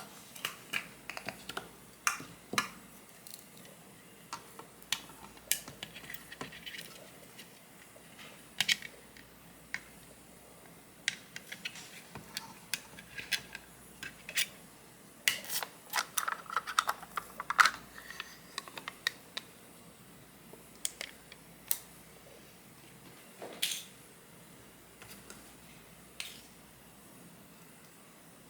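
Scattered light clicks and taps of small utensils and containers being handled, with a busier stretch of rustling and clicking about halfway through.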